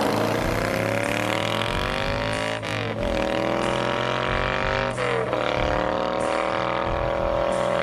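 Moto Guzzi transverse V-twin engine accelerating through the gears: its pitch climbs steadily, then drops sharply at a gear change twice, about a third and two-thirds of the way in.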